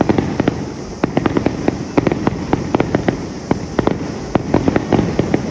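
Aerial fireworks going off close by: a dense run of sharp, irregular crackling pops, several a second, over a continuous low rumble.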